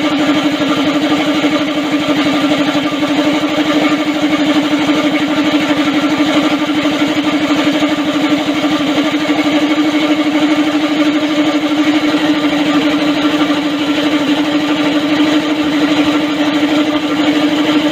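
Go-kart's small petrol engine running at a steady speed with an even pulsing drone, no revving.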